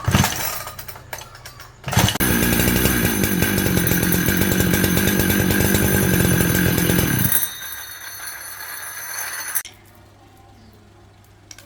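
A loud motor, like a power tool or small engine, starts about two seconds in and runs steadily with a fast rhythm for about five seconds. It then cuts back and winds down, falling quiet near the end.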